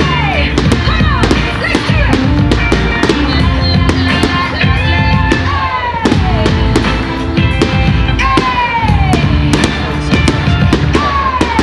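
Fireworks going off in quick, irregular bangs and crackles over loud music with held notes. Several falling tones, each about a second long, run through it.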